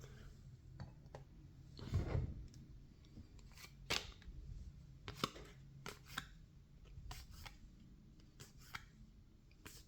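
Trading cards being handled and flipped through: faint crisp snaps and slides of card stock, with a louder rustle about two seconds in.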